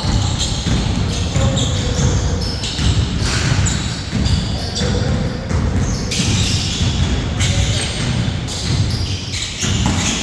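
Basketball game sounds on an indoor court: the ball being dribbled and bounced, echoing in a large hall.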